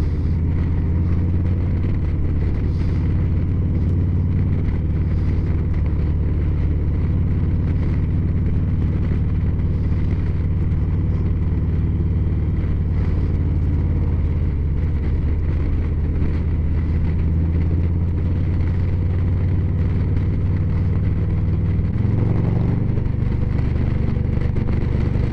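Motorcycle engine running steadily while riding at a constant pace, heard from the rider's position; its note steps up near the end as the revs rise.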